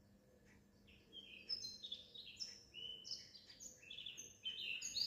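Small songbirds chirping and singing, starting about a second in and growing busier toward the end: many short, quick falling notes, overlapping.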